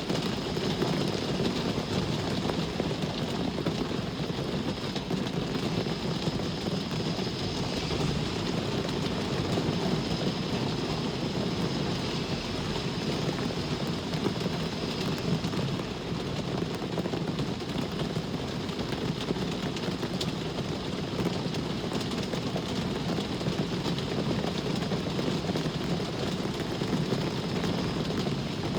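Steady rain falling, mixed with a continuous low rumble of road traffic.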